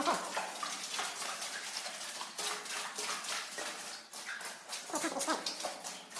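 Footsteps squelching through wet mud, with short squeaky sucking sounds as boots pull free.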